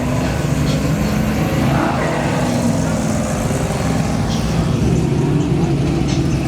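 Car engines running at idle, a steady low rumble, with people talking in the background.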